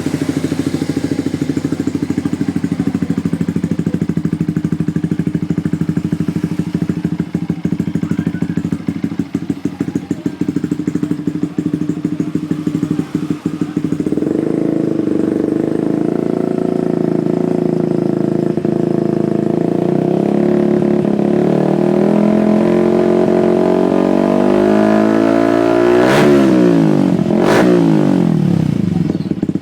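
Yamaha Xabre's single-cylinder engine running through a Leovince Cobra aftermarket racing exhaust: idling for about half the time, then the revs climbing slowly, and two quick throttle blips near the end before it settles back to idle.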